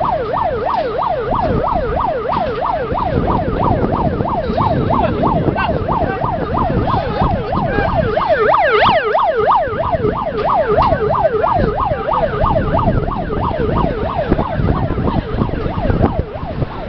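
Emergency siren sounding a fast yelp, rising and falling about three to four times a second over a low background rumble, as the alarm for an evacuation drill. A second, higher sweep joins briefly near the middle, and the siren fades near the end.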